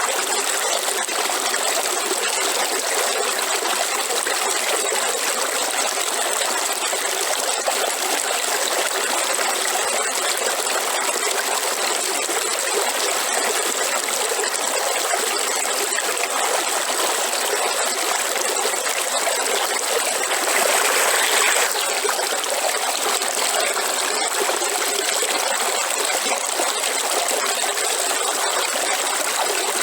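River water flowing, a steady noise of running water, briefly louder for about a second around twenty seconds in.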